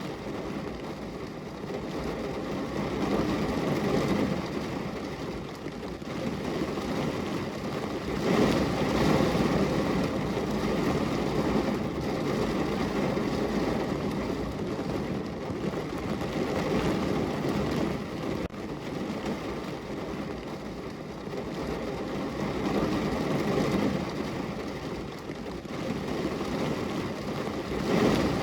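Heavy rain falling on the roof and body of a parked car, heard from inside the car: a dense, even patter that swells into heavier spells several times, for example about 4 s in, around 8 to 10 s, and again near the end.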